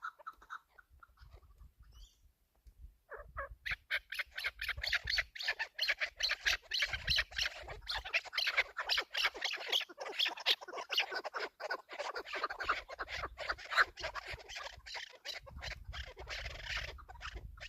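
Chukar partridges calling in a dense, rapid run of clucking, chattering notes. The calls are sparse at first and thicken into a continuous chorus about three seconds in.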